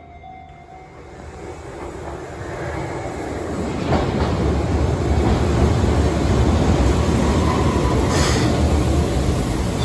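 Keihan Ishiyama-Sakamoto Line train pulling into the platform: a low rumble of wheels and running gear that builds steadily and grows loud over the last half, with a single sharp click about four seconds in and a short hiss about eight seconds in.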